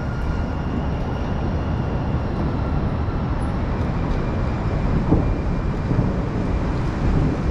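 Light-rail train of San Francisco's new Chinatown line running past: a steady rumble.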